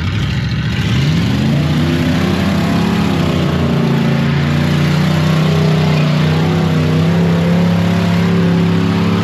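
Truck engine revving up over the first couple of seconds and then held at high revs under heavy load, pushing through a deep water-filled mud hole.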